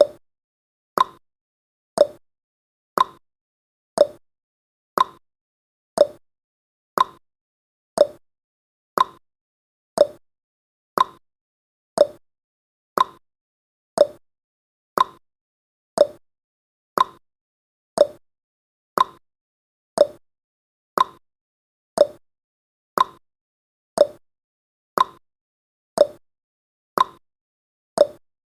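Clock-tick sound effect of a countdown timer, one sharp tick each second with a brief ring, steady and evenly spaced.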